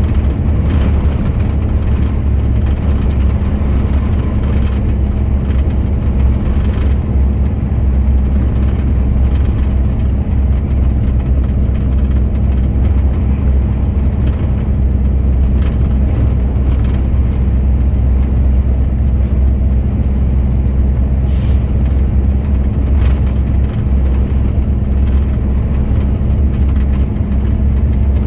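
Heavy truck on the move: its engine and road noise make a steady low drone with an even hum, unchanging throughout.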